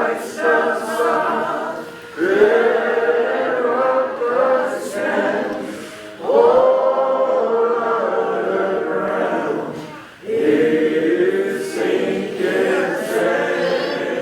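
Choir singing in long phrases of about four seconds, with short breaks between phrases.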